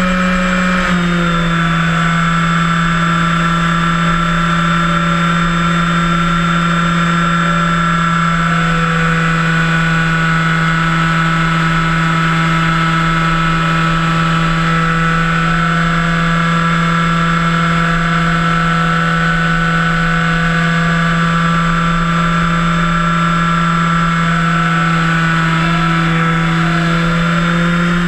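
Electric motor and propeller of a HobbyKing Cessna 182 1.5 m RC floatplane running steadily under power, a constant buzzing hum. The pitch drops slightly about a second in as the throttle eases and rises a little near the end.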